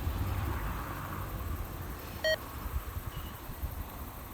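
A single short electronic beep about two seconds in, over a faint steady low rumble and hiss.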